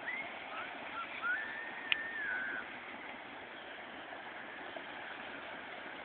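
Steady outdoor hiss with a few whistled bird notes in the first couple of seconds, one of them held and then falling. A single sharp click comes about two seconds in.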